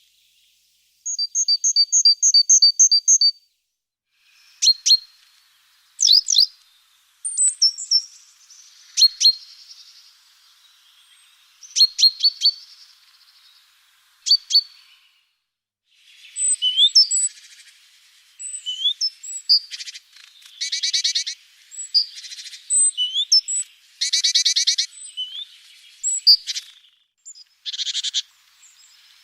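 Several small songbirds calling and singing: a quick series of high repeated paired notes early on, then sharp single chips, and from about halfway several fast trills mixed with short rising whistles.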